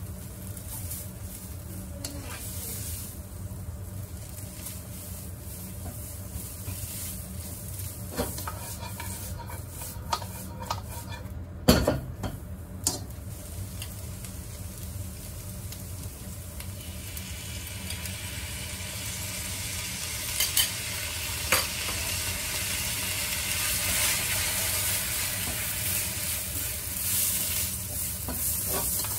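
Egg noodles frying in a wok, a steady sizzle that grows louder and brighter about two-thirds of the way through. A few sharp clicks and one loud knock come near the middle, and a spatula stirring and tossing the noodles in the pan can be heard near the end.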